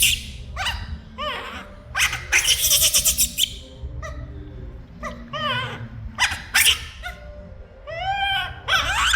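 Baby monkey calling loudly and repeatedly: harsh screeches mixed with several rising-and-falling coo calls, the distress calls of a young monkey looking for its mother.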